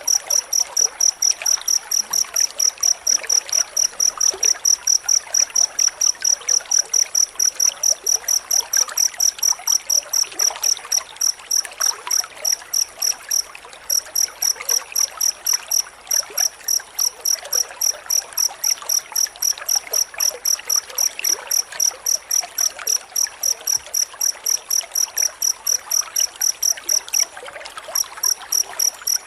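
Cricket chirping in a fast, even series of high chirps, about three to four a second, over a faint hiss. The chirps break off briefly twice, about halfway and near the end.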